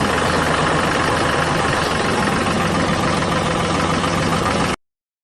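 A mini model tractor running steadily with an even engine-like drone. It cuts off abruptly near the end.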